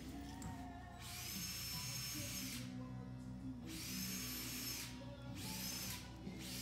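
Background music, with a power drill running in three short bursts of about a second each; its high whine climbs as it spins up at the start of each burst.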